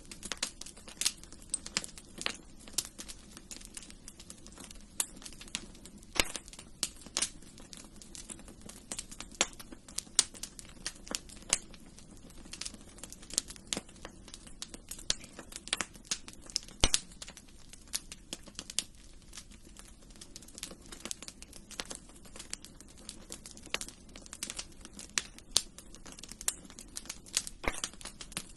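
Wood fire crackling in a fireplace: frequent irregular sharp pops and snaps over a low steady hiss.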